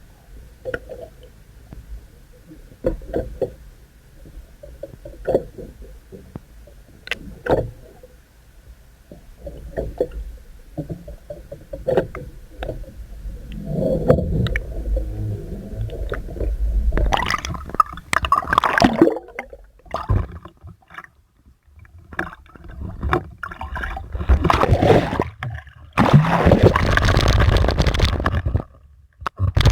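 Water sloshing and splashing with scattered knocks and clicks, growing louder in two stretches, about halfway through and again near the end.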